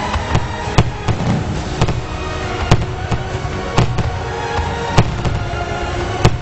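Fireworks going off: about five sharp, loud bangs at irregular intervals with smaller pops between them, over steady music.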